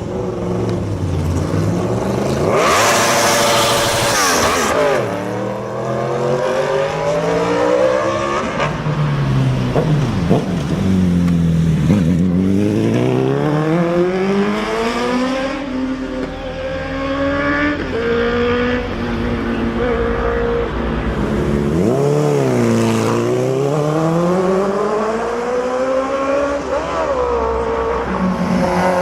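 Superbike engine revving, its pitch repeatedly climbing and falling with throttle and gear changes. A harsh noisy burst sounds about three seconds in.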